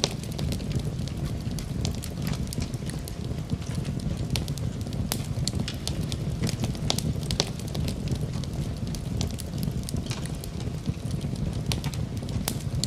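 Campfire burning, with a steady low rumble under frequent, irregular sharp crackles and pops of the burning wood.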